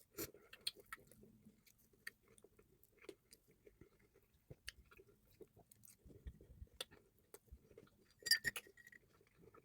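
A person chewing a mouthful of food close to the microphone: soft, irregular wet clicks and smacks. A brief, louder run of clicks comes near the end.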